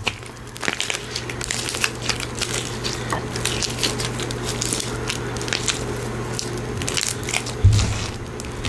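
Slime being squished and pulled by hand, with many small irregular crackles and sticky pops. A soft, louder thump near the end.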